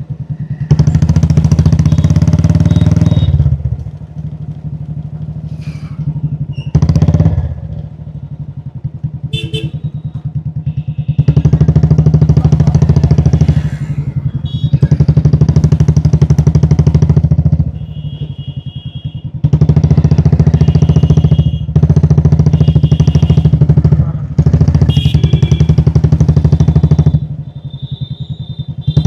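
Royal Enfield Classic 350's single-cylinder engine thumping under way. It swells loudly several times as the throttle opens, dropping back between the surges.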